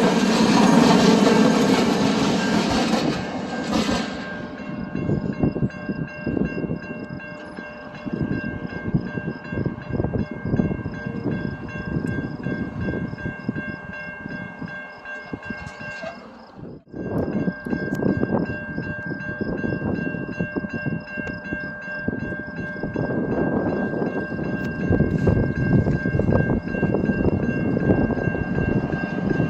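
A train passing on the tracks, its wheels rolling and clicking over the rail joints. It is loudest in the first few seconds. Over the rest runs a steady high ringing tone, and the sound drops out for a moment about halfway through.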